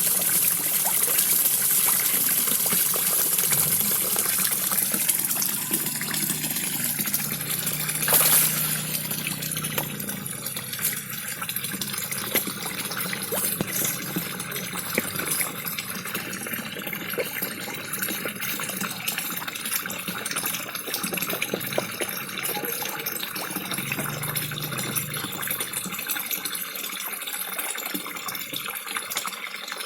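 Small pond waterfall splashing steadily, with many small pops and slurps of koi feeding at the surface. One brief louder splash about eight seconds in.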